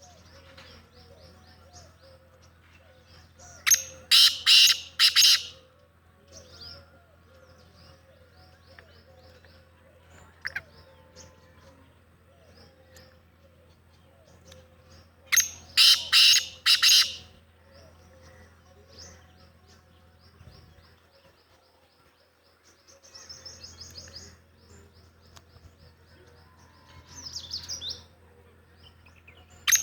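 Black francolin calling: a loud, harsh call of about five notes, given twice about twelve seconds apart, with fainter bird chirps throughout and quieter rapid runs of notes near the end.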